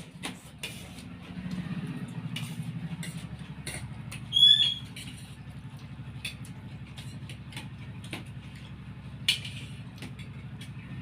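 Cutlery clicking against plates during eating, over a steady low hum. One loud, short, wavering high squeak comes about four and a half seconds in.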